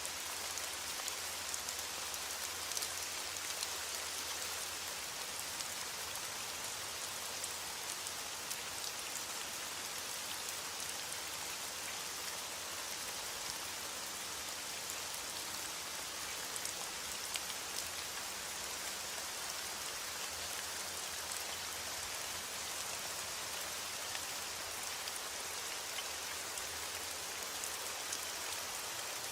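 Steady rain falling, an even hiss flecked with many small drop ticks.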